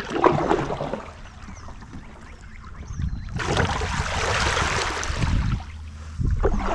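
Water sounds from a kayak being paddled: splashing and dripping off the paddle blade, loudest for a couple of seconds around the middle, over a low rumble.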